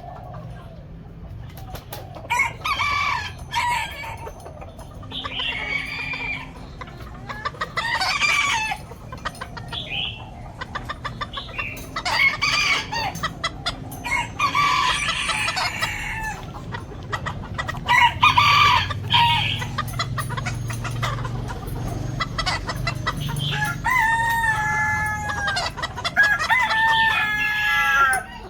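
Chickens clucking and roosters crowing again and again, with many short sharp clicks between the calls and two long drawn-out crows near the end.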